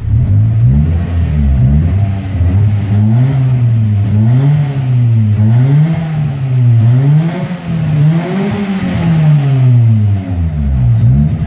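Ford Ka 1.0 engine revved up and down about five or six times, heard from inside the cabin through a newly fitted prototype muffler. The exhaust note is a deep rumble that is not very loud.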